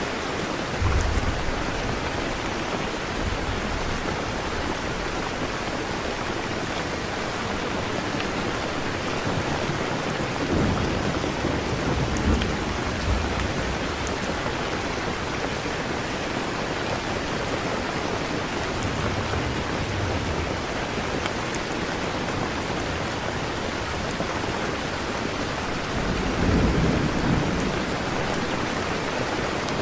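Steady rain, with low rumbles of thunder swelling up several times.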